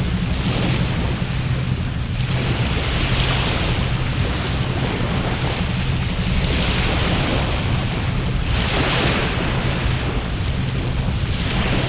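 Wood fire burning in a fire pit, giving a steady rushing hiss that swells louder every few seconds, with a steady high-pitched tone running underneath.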